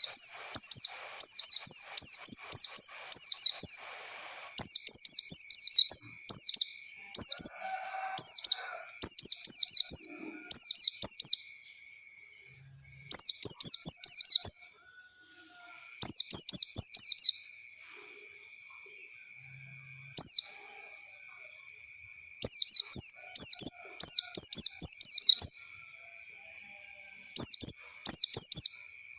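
White-eye (pleci) singing: rapid, high twittering phrases in bursts of one to four seconds, separated by short pauses. A faint steady high tone runs underneath.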